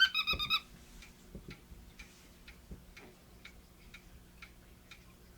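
Cockatiel finishing a fast run of squeaky chirps, like a squeaky dog toy, which stops about half a second in. After that a clock ticks faintly, about twice a second.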